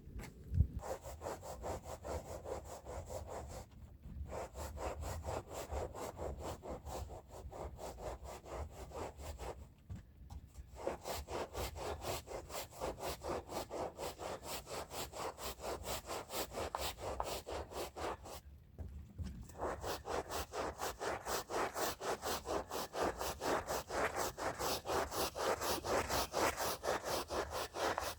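Stiff hand brush scrubbing a rug's pile in quick back-and-forth strokes, about three to four a second, stopping briefly three times and growing louder near the end.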